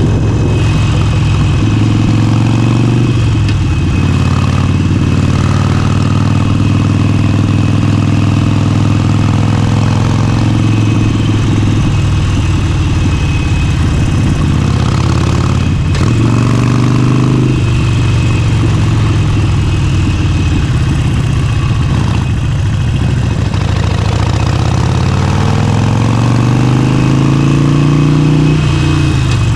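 Motorcycle engine and exhaust under way on the road, a steady loud engine note with a few brief breaks, then climbing in pitch through the last few seconds as the bike accelerates.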